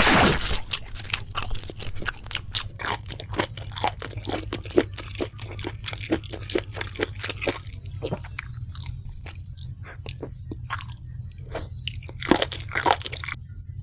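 Close-miked chewing of crispy fried food: a dense run of crisp crunches, with a loud crunchy bite right at the start.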